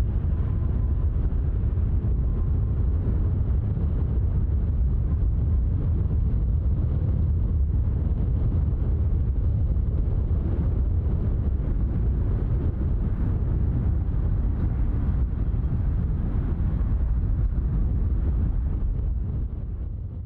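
Low, steady rumble of a Boeing 777-300ER's GE90 jet engines at idle as it rolls off the runway onto the taxiway, mixed with wind on the microphone. It fades out near the end.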